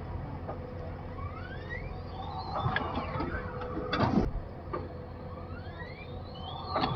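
JCB 3DX Plus backhoe loader working: the diesel engine runs steadily under several rising whines, with a loud clunk about four seconds in.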